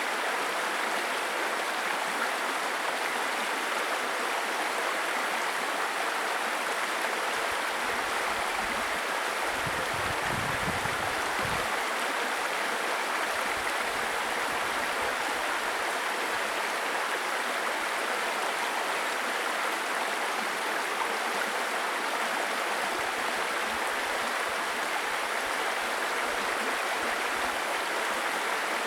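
Babbling brook: a steady rush of running water, with a brief deeper rumble about ten seconds in.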